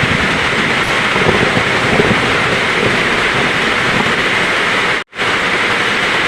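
Heavy rain pouring steadily. The sound cuts out completely for a split second about five seconds in, then resumes.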